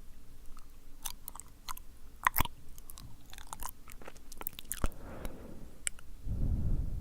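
Close-microphone wet mouth sounds: irregular sticky clicks and smacks of lips and tongue, with a soft breath around the middle and a louder breath pushed onto the microphone near the end.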